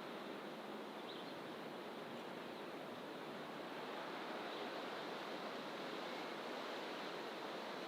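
Steady rush of ocean surf, swelling slightly partway through, with a faint short bird call about a second in.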